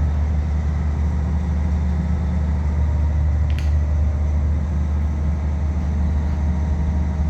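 Steady, loud low mechanical hum of running machinery, with one short click about three and a half seconds in.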